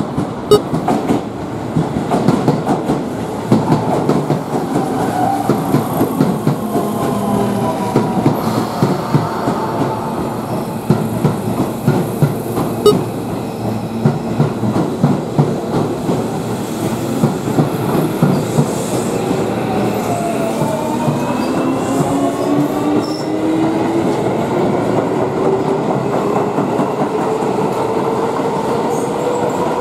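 Electric commuter train running, its wheels clacking over rail joints. A motor whine falls in pitch over the first part and rises steadily through the second half as the train picks up speed.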